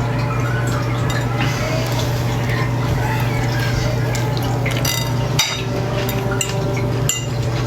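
Steady low room hum with faint background voices, and a few light clicks of a utensil against a dish during eating.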